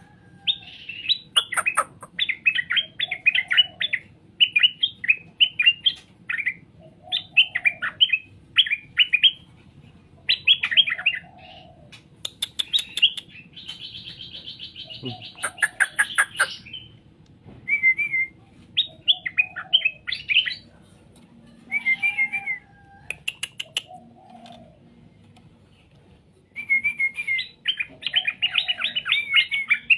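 Straw-headed bulbul (cucak rowo) singing: short bursts of quick, warbling notes, one phrase every second or two, with a few sharp clicks in between.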